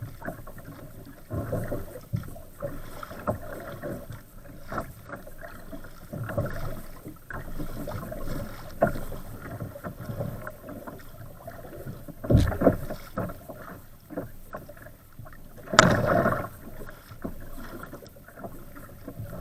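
Waves and paddle strokes splashing against the hull of an Old Town Castine 140 kayak in rough water, in uneven surges about every second, with wind buffeting the camera microphone. Two louder splashing knocks stand out in the second half.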